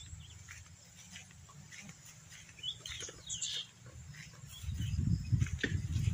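Birds calling with short, scattered chirps over a quiet outdoor background. Near the end a low rumbling noise grows louder and covers them.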